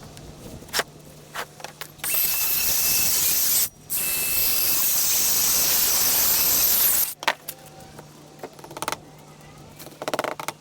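A pressurised spray hissing in two bursts, the first about a second and a half long and the second about three seconds, stopping abruptly; a few light clicks and knocks come before and after.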